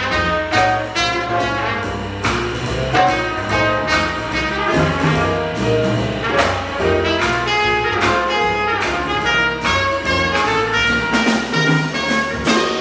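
Acoustic jazz quintet of tenor saxophone, trumpet, piano, double bass and drums playing a bebop-style tune: a horn line over moving double-bass notes, piano and cymbals.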